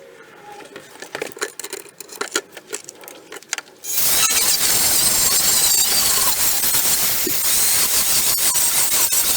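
A few light metallic clicks and clinks, then about four seconds in a MIG welder strikes an arc and runs a continuous bead with a loud, steady crackling hiss.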